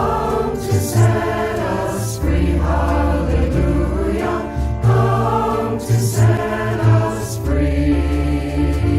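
A choir singing over a sustained low accompaniment, with sharp hissing 's' sounds from the singers every second or so.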